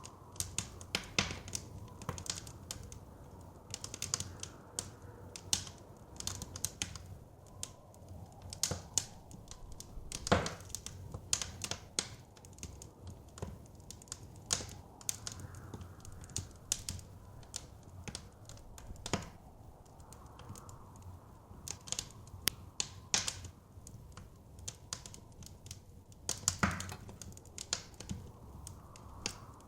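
Wood fire crackling, with irregular sharp pops and snaps, two louder pops standing out, over a low steady rumble of blizzard wind.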